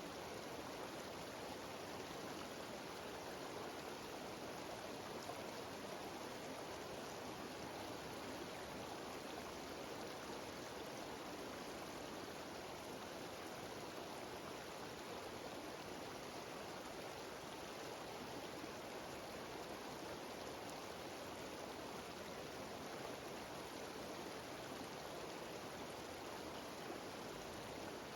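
Steady rushing and splashing of a cascading mountain stream and small waterfall, even and unbroken.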